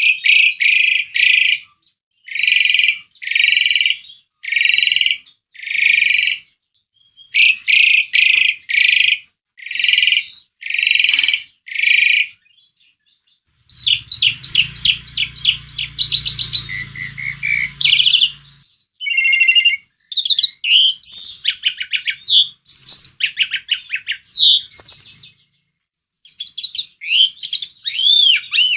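Asian pied starling calling and singing: a run of about ten harsh, evenly spaced calls, a short pause, then fast chattering and varied whistled phrases. A low hum sits under the first stretch of chattering.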